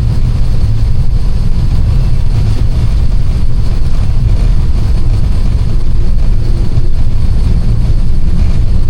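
Steady, loud low rumble of an Airbus airliner, with no distinct events or changes.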